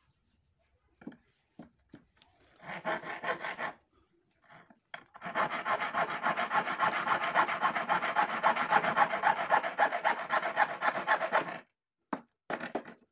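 Hacksaw cutting with back-and-forth strokes: a few light taps, a short burst of sawing, then about six seconds of steady sawing that stops suddenly, followed by a few short strokes near the end.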